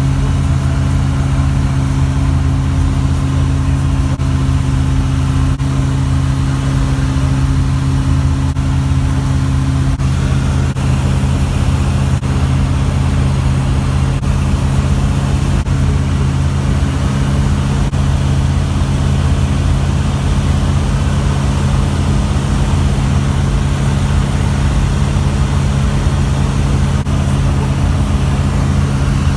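Zenith Zodiac CH 601 light aircraft's piston engine and propeller running at a steady, unchanging speed, a constant low drone.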